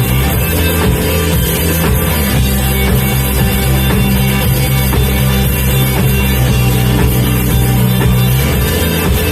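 Math rock played by a band on guitar and drum kit, loud and steady throughout.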